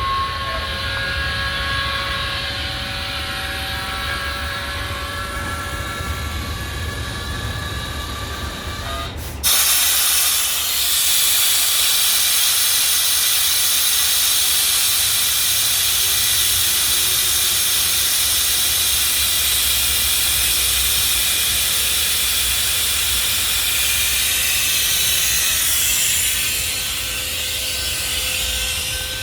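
Scania truck's diesel engine running with a low rumble and faint steady whines; about nine seconds in, a loud steady hiss cuts in abruptly and holds for about sixteen seconds before easing off near the end.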